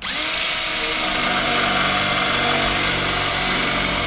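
Electric drill starting up and then running steadily with a whining motor tone, working on the car's sheet-steel panel where spot welds are being drilled out.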